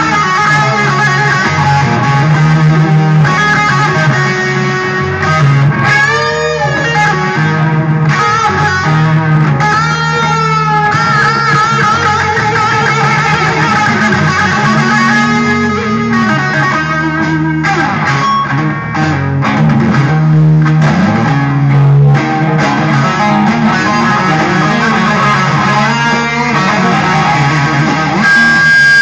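Electric guitar music over a bass line. The guitar bends and shakes its notes in pitch, most plainly about six and ten seconds in.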